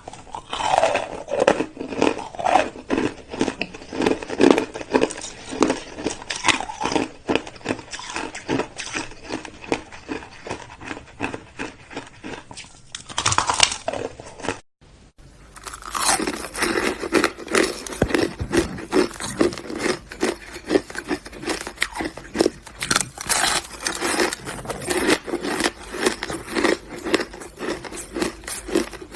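Hard, crusty shaved ice being chewed: a steady run of rapid, crisp crunches, with a brief break about halfway through.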